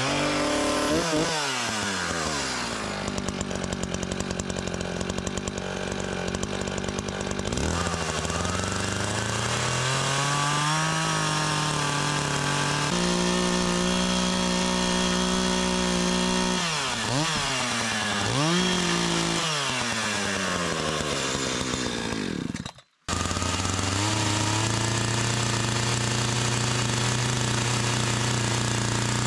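An engine running, its speed rising and falling several times. It breaks off suddenly near the 23-second mark and resumes at a steadier, lower pitch.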